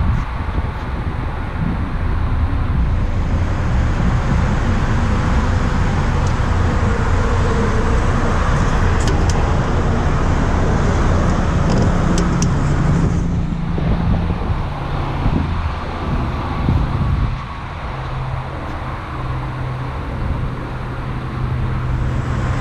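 2020 Mazda MX-5 Miata's four-cylinder engine idling steadily.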